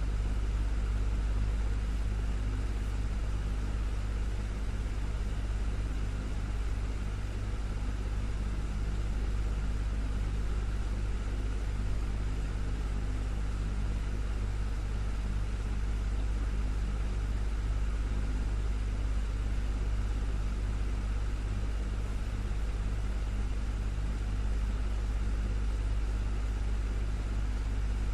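Desktop fan running steadily: a constant low motor hum under an even rush of air.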